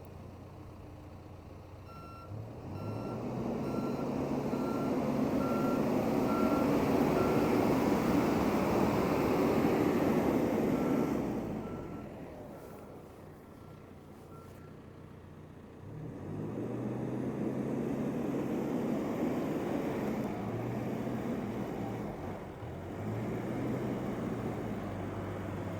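2014 John Deere 310SK loader backhoe being driven, its diesel engine speeding up, easing off and speeding up again. Its backup alarm beeps about twice a second in two spells while it reverses.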